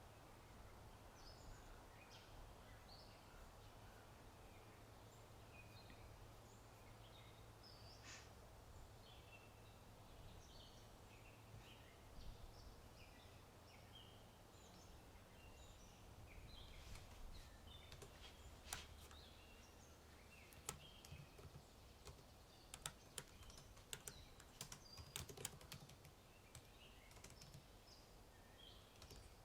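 Faint birds chirping over a low, steady outdoor background, with computer keyboard typing, a run of keystroke clicks in the second half.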